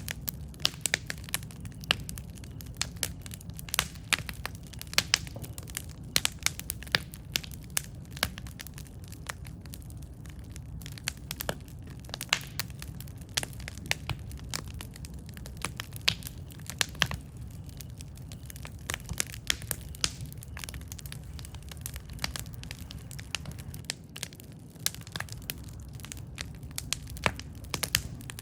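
Campfire burning with irregular sharp crackles and pops, several a second, over a steady low rumble of the flames.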